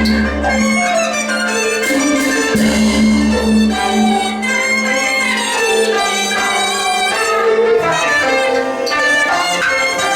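Teochew opera instrumental ensemble playing, a bowed-fiddle melody over the band, with a low held note that drops out about half a second in and comes back about two and a half seconds in.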